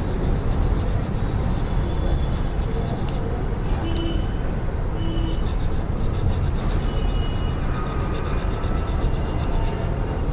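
Motorcycle disc brake pad rubbed back and forth on sandpaper, a steady scraping. The pad's surface is being sanded off to clear out the small grit lodged in it, which causes the brake squeal.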